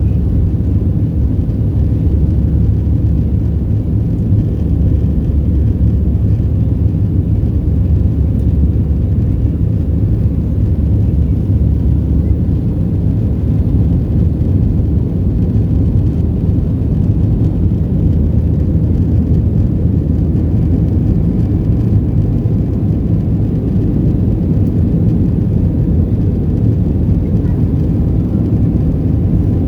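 Steady low rumble of a Boeing 737-700's CFM56 engines and airflow, heard inside the passenger cabin as the jet flies, with no change in level.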